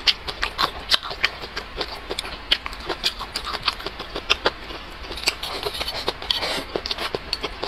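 Close-miked eating sounds: wet chewing and lip smacking of braised pork belly and rice, heard as many sharp, irregular mouth clicks. About two-thirds through they thicken into a denser, noisier stretch as rice is pushed into the mouth from the plate's edge with chopsticks.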